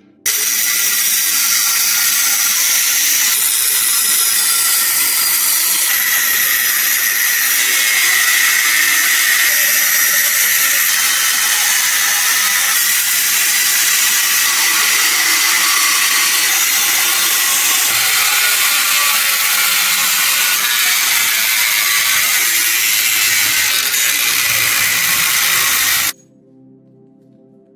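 Power tool abrading the rusted steel of an old knife blade: a loud, steady, high-pitched grinding hiss that starts abruptly and cuts off abruptly near the end.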